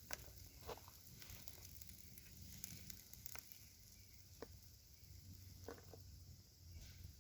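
Faint crackling of a small wood campfire: a handful of sharp, irregular pops over a soft hiss.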